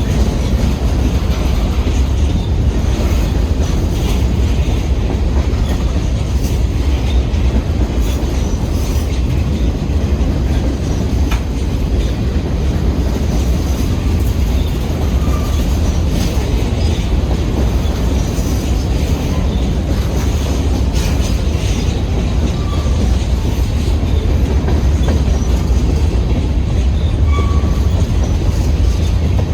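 Union Pacific freight train rolling past on the rails: a steady, loud rumble of wheels and cars, with a few faint, brief wheel squeals.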